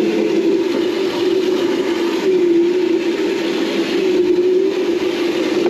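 Razor Crazy Cart's upgraded 48-volt, 900-watt electric motor whining at a steady, slightly wavering pitch under power, over a steady rushing noise of the ride.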